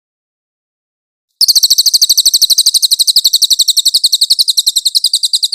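A cililin bird singing a long, fast, high-pitched trill of about a dozen notes a second. It starts abruptly about a second and a half in.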